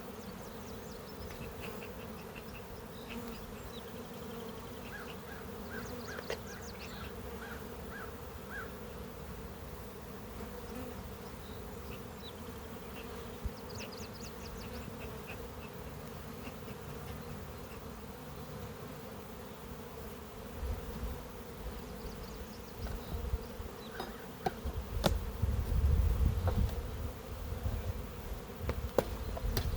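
Honeybees buzzing around an open hive in a steady hum. From about two-thirds of the way in, a louder low rumble on the microphone joins it.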